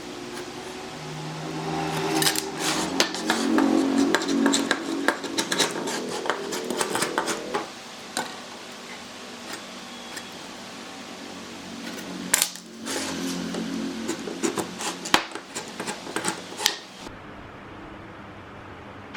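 Hand work with tools on wood: rapid light clicks, taps and clatters in two busy spells, the first about two seconds in and the second about twelve seconds in, over a low steady hum.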